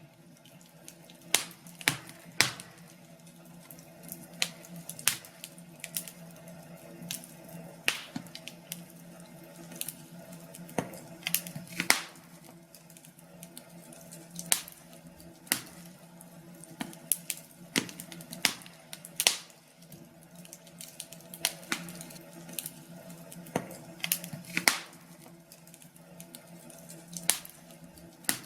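Wood fire crackling in a fireplace: irregular sharp pops and snaps, some loud and many soft, over a faint steady low hum.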